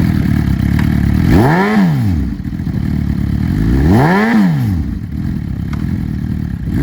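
2007 Suzuki GSX-R1000's inline-four engine with an M4 aftermarket exhaust, idling just after starting. It is blipped twice, about a second and a half in and again about four seconds in, each rev rising quickly and falling back to idle.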